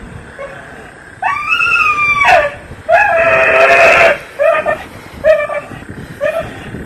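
An animal crying out in distress: two long, wavering cries, then a run of short cries about once a second.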